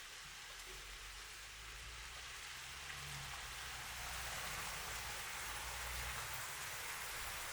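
Steady rain falling, growing somewhat louder about halfway through, with a low rumble underneath for most of it.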